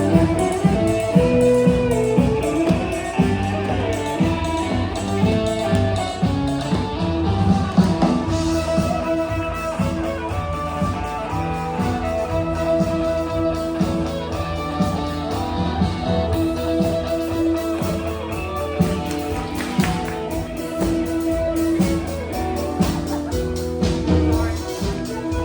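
Live contra dance band of fiddle, keyboard and percussion playing a dance tune with a steady beat.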